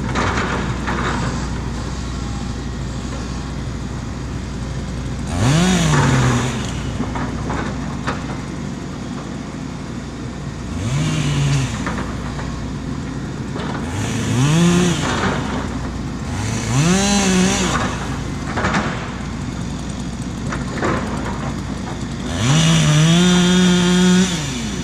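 John Deere 135 excavator's diesel engine running steadily and pulling up five times under hydraulic load as it digs. Each time its pitch rises and falls back; the last is held for about two seconds near the end.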